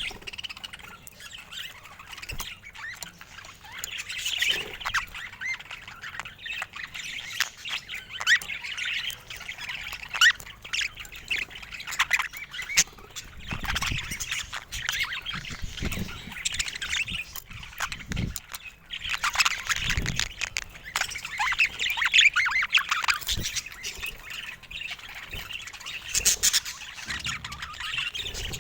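Pet budgerigars chattering and warbling continuously, with sharp squawks mixed in. A few low knocks come in the second half.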